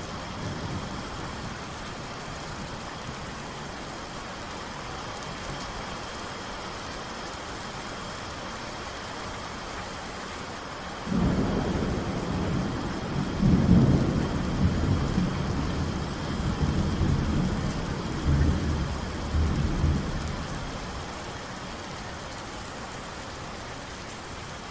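Steady rain falling, with a roll of thunder that starts suddenly about halfway through, rumbles in several swells and fades away near the end.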